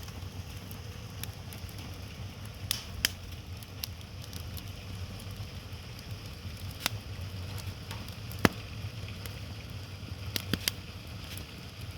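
Wood fire burning, with scattered sharp pops and crackles from the firewood over a steady low rumble.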